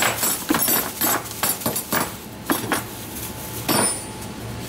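Metal hand tools clinking and knocking together as they are handled, in a run of separate clinks with a louder one near the end.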